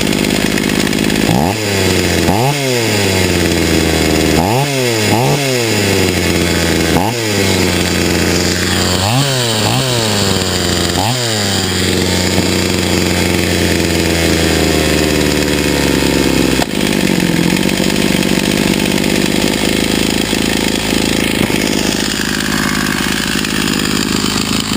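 Stihl 028 two-stroke chainsaw running with its chain off after a carburettor rebuild and clutch cleaning, revved in about eight quick throttle blips over the first twelve seconds, then held at a steady speed.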